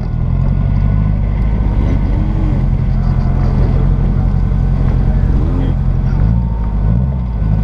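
Westfield clubman's Toyota 4A-GE 'silvertop' 1.6-litre twin-cam four-cylinder running steadily at low revs as the car rolls slowly, heard from the open cockpit. The engine note shifts briefly near the end.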